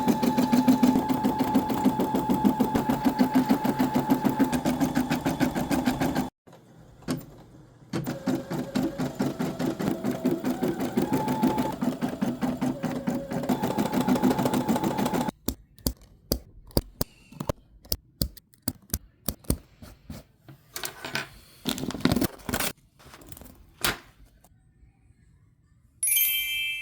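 Brother embroidery machine stitching at speed, a steady hum with a fast needle clatter. It runs for about six seconds, breaks off briefly, then runs again until about fifteen seconds in. After that come only scattered clicks and taps, then a short electronic chime near the end.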